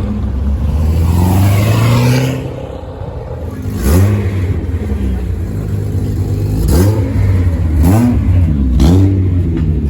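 Car engine revving: it climbs in pitch over the first two seconds, settles, then is blipped four times in quick throttle stabs, each rising and falling sharply.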